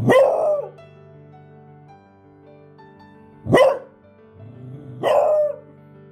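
Beagle barking three times, each a short call that drops in pitch; the last bark rises out of a brief low sound just before it.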